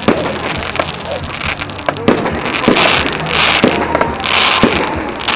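Fireworks display: a rapid series of shells bursting with sharp bangs, interleaved with several short bursts of hissing crackle from crackling effects in the second half.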